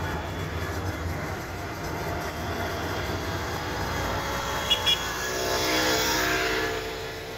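Road and engine noise heard from inside a moving car, a steady low rumble. About five seconds in there are two short high beeps, then a louder engine sound swells up and fades away.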